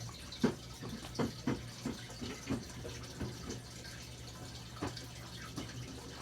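Scattered small clicks and taps at irregular intervals over a steady low hum.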